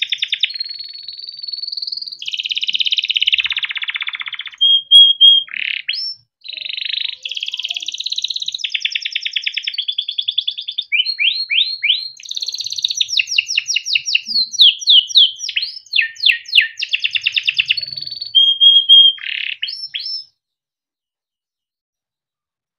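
Yellow canary singing a long unbroken song of fast trills and rolls, quick sweeping notes and short held whistles. The song stops about 20 seconds in.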